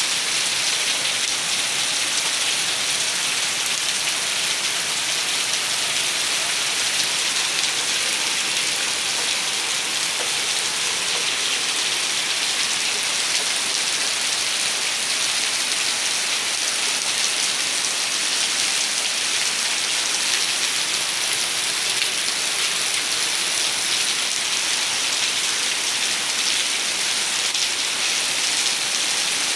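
Heavy rain falling steadily, an even hiss of rain striking surfaces.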